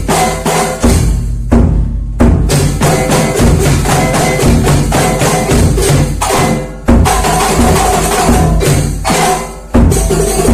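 Kuntulan ensemble music: frame drums and jingling percussion played in a fast, dense rhythm. It drops away briefly about six and a half seconds in and again near the end, each time coming back with a loud accented strike.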